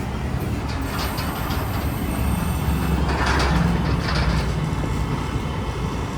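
Diesel garbage truck running with a steady low rumble and mechanical rattling, a faint high squeal in the first half, and louder clattering about halfway through.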